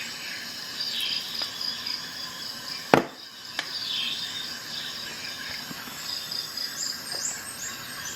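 Insects chirping steadily with repeated short falling bird-like chirps, and one sharp click about three seconds in, the loudest sound, with a few fainter clicks around it.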